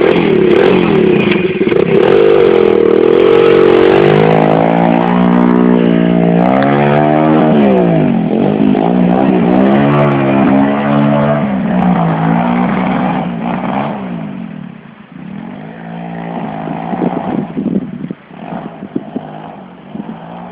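Pit bike engine running under load on a ride, its pitch rising and falling again and again with the throttle. It drops away about two-thirds through, comes back quieter, and stops near the end.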